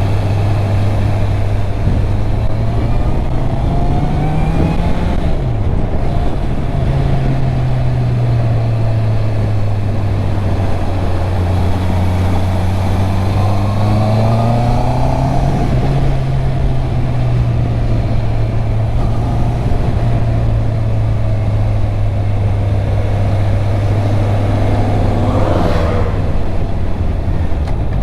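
A stock 2021 Honda CB650R's inline-four engine running on the move. The revs climb and fall a few times, with a quick sharp rev and drop near the end.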